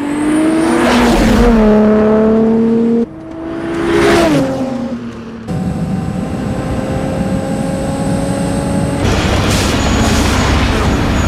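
Sports car engines at speed on a highway. An engine revs up and drops in pitch at a gear change, then cuts off abruptly about three seconds in. A second engine climbs and sweeps past with a falling pitch. Then comes a steady engine drone with tyre and road noise, which turns rougher near the end.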